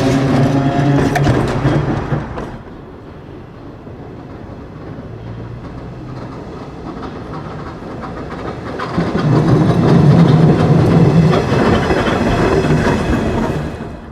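Perley Thomas streetcar running on its rails, with steady tones and the clatter of wheels on track. It is loud at first and drops away sharply about two seconds in; from about nine seconds in another loud pass follows, which cuts off shortly before the end.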